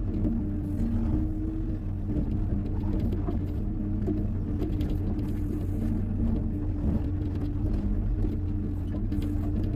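The diesel engine of a Hyundai 140 wheeled excavator running steadily, a constant low drone with a steady pitch.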